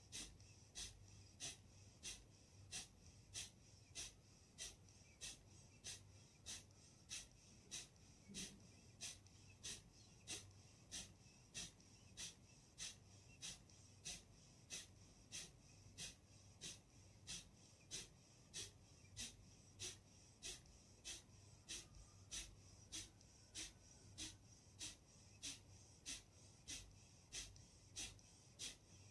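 Kapalbhati breathing: short, forceful exhalations through the nose, a little under two a second, in a faint, steady, even rhythm.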